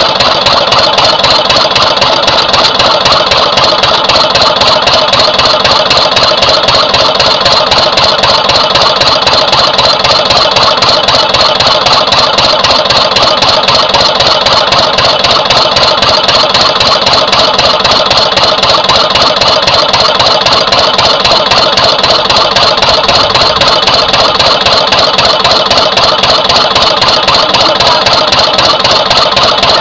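Twin-cylinder Lister CS stationary diesel engine running steadily, its firing beats evenly spaced and unchanging. The owner finds cylinder two still firing slightly weaker than cylinder one after the pumps were balanced, and suspects its injector's spray pattern.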